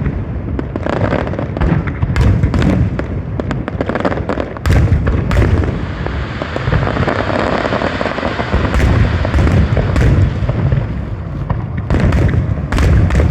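Fireworks display: a rapid series of bangs and deep booms, with a stretch of dense crackling in the middle.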